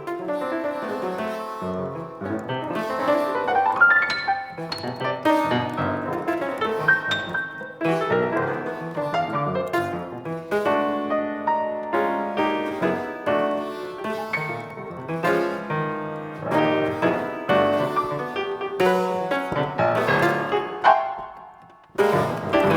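Piano playing a fast, dense stream of many notes across a wide range. Near the end it briefly fades almost to nothing, then a new cluster of notes comes in.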